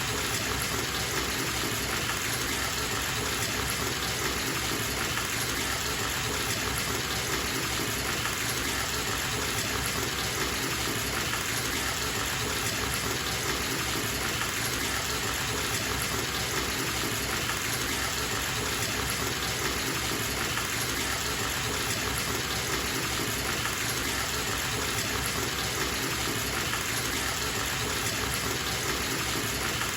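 Water running steadily from a bathtub tap into the tub as it fills, a constant even rush.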